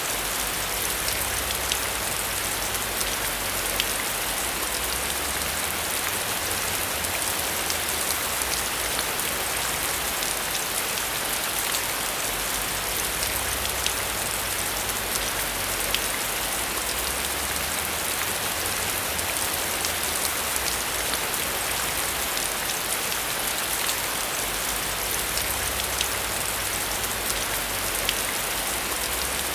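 Heavy, steady rain with many individual drops ticking sharply over a dense hiss, and a low rumble underneath.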